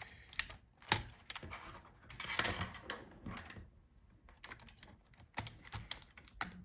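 Irregular small plastic clicks and taps of hands working inside an opened laptop, unlatching a ribbon-cable connector on the motherboard and pulling the cable, with a brief rustle of parts being moved.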